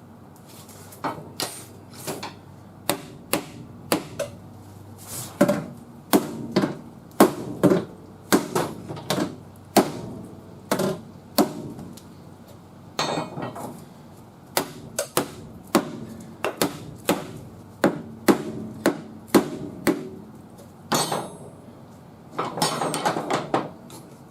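Hammer blows on a car's sheet-metal quarter panel: sharp, irregular strikes about one to two a second, with a quick flurry near the end, while a frame machine holds the panel under pull.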